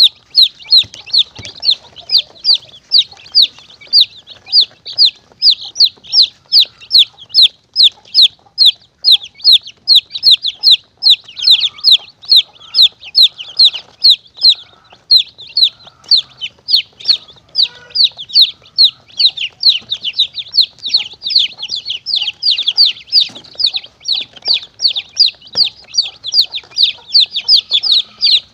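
Baby chicks peeping in a fast, unbroken run of short, high, falling peeps, about three to four a second. It is a chick distress call used as a lure to call in monitor lizards and mongooses.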